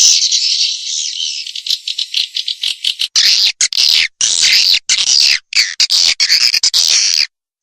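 Swiftlet calls from a recorded lure track: loud, dense, high twittering chirps. They run smoothly at first, turn choppy with short gaps about three seconds in, and stop just before the end.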